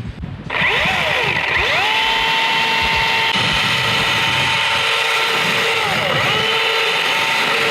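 Milwaukee battery-electric chainsaw spinning up and cutting into a maple limb, a steady high motor whine that sags briefly in pitch a few times as the chain loads in the wood.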